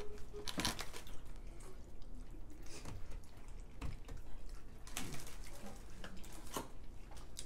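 Wet chewing and lip-smacking of people eating sauced hot chicken wings, with a few sharp wet clicks scattered through.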